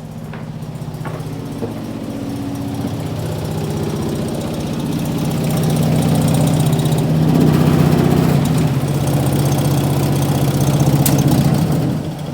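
Electric furnace blower fan running on high speed, a loud steady hum that grows louder, then drops sharply near the end as a breaker trips and the fan falls back to low speed.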